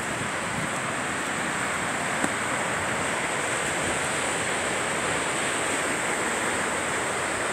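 Rushing water of the Kootenai River's rapids and small waterfalls, a steady roar close by. A single faint click about two seconds in.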